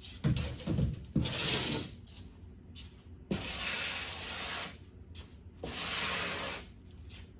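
Rough scraping or rubbing noises in four separate stretches, each about a second long, with a few low knocks at the start of the first.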